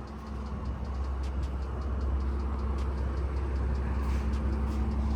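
Car engine idling: a steady low rumble with a constant hum.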